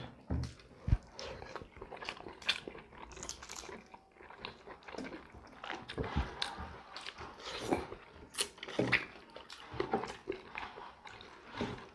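Close-miked chewing and eating sounds of people eating rice and fish curry by hand, with scattered short clicks and crunches.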